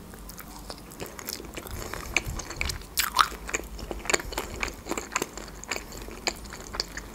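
Close-miked chewing of a bite of skin-on grilled chicken: a quick run of small crunchy clicks, with the loudest crunches about three seconds in.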